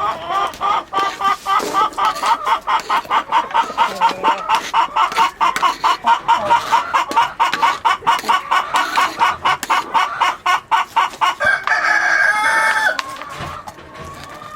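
Chicken clucking in a long, rapid, even run of short calls, several a second, then a longer, higher call about twelve seconds in.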